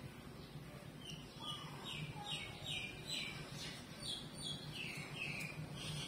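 A bird calling: a quick, even run of short falling chirps, about two or three a second, starting about a second in and closing with a longer note near the end, over a faint low steady hum.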